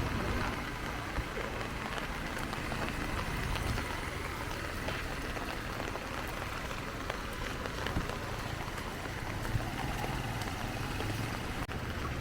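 Heavy rain falling steadily, with scattered sharp taps of drops striking nearby surfaces.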